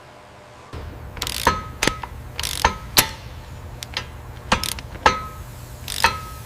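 Metal tools clicking and clanking on steel, about a dozen sharp irregular strikes, several with a short ring, over a steady low hum that starts about a second in: the sound of the toe being adjusted during a truck wheel alignment.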